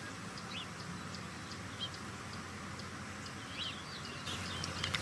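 Quiet outdoor ambience on a golf course: a steady low background hum with a few short bird chirps scattered through it.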